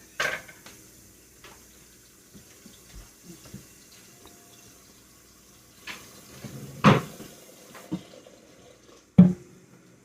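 Kitchen sink sounds: water splashing and a few brief knocks, the loudest near the start, about seven seconds in, and about nine seconds in.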